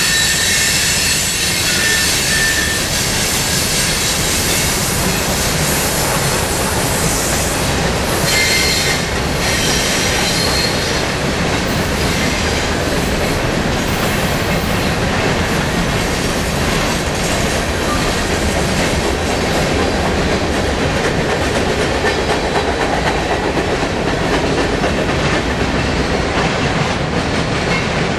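Mixed freight train of tank cars, boxcars and covered hoppers rolling past, with a steady clatter of steel wheels on the rails. Thin high wheel squeals come and go, mostly in the first half.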